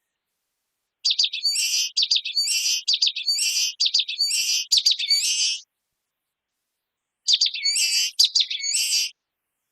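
Common waxbill singing: a run of quickly repeated high phrases for about four and a half seconds, then after a short pause a second, shorter run.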